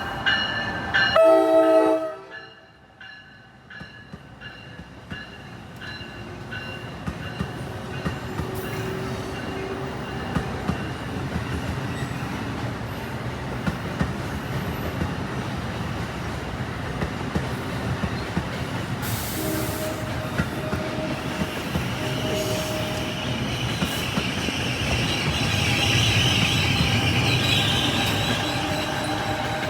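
A train horn blows a loud chord in the first two seconds and cuts off abruptly. Then a New Jersey Transit train runs past on the rails, its noise building slowly, with a high-pitched wheel squeal near the end.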